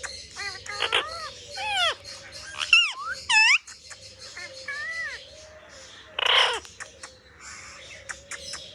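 A pet parrot calling: a run of short squawks and whistles that bend up and down in pitch, with one longer harsh screech about six seconds in.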